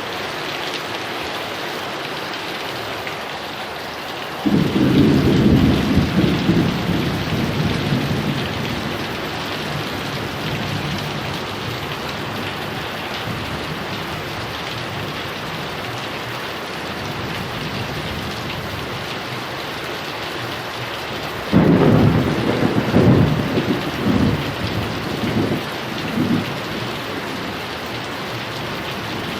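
Heavy rain falling steadily, with two claps of thunder: one about four seconds in that rumbles on for several seconds, and a second about three quarters of the way through that cracks and rolls off in a few bursts.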